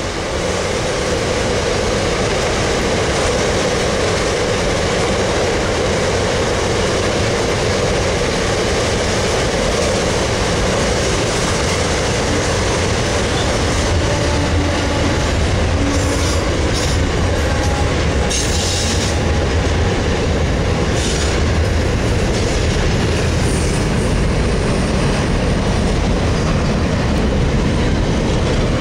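Freight train of wagons loaded with steel rolling past: a loud, steady rumble of steel wheels on the rails with a clickety-clack over the rail joints. It grows heavier around the middle, with a few short high-pitched sounds about halfway through.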